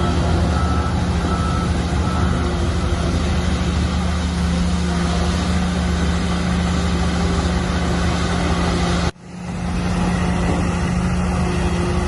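Heavy diesel earthmoving machinery running steadily under load, with a low engine hum throughout. A reversing alarm beeps repeatedly in the first second or two. The sound cuts out abruptly about nine seconds in and comes straight back.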